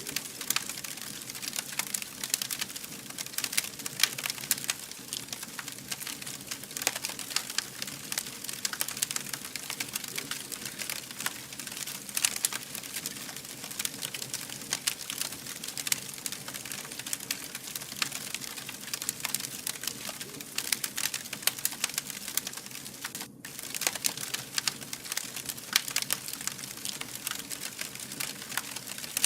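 Wood fire burning with continuous dense crackling and small snapping pops over a soft hiss, briefly dropping out about 23 seconds in.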